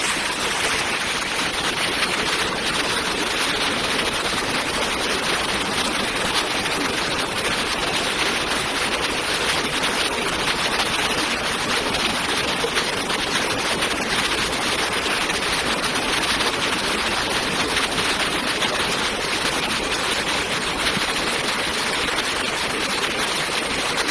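Fast-flowing floodwater rushing with a steady, unbroken noise.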